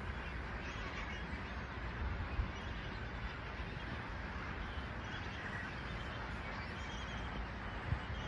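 A large flock of flamingos calling, a steady din of goose-like honking and chatter, with a few brief low bumps.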